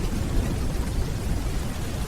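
Steady rainfall under a low, continuous rumble of distant thunder.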